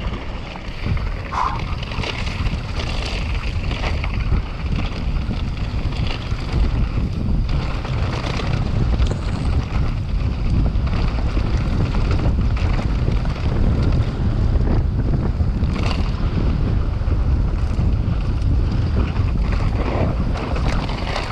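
Wind buffeting the microphone of a mountain biker's camera on a fast descent: a loud, steady low rumble with scattered knocks and rattles from the ride over rough ground.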